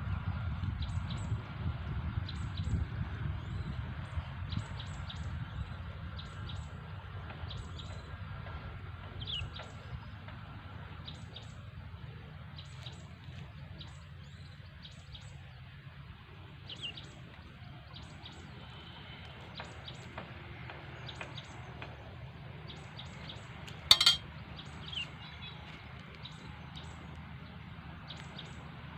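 Small birds chirping in short, repeated high calls over a low steady rumble that fades during the first half, with one sharp knock late on.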